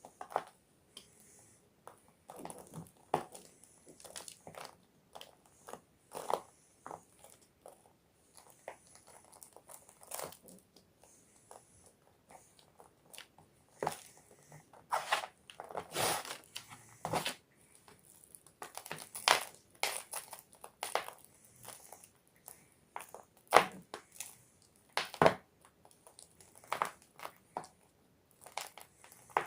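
Gym chalk blocks being crushed and crumbled, a run of irregular dry crunches and crackles that come thicker and louder in the second half.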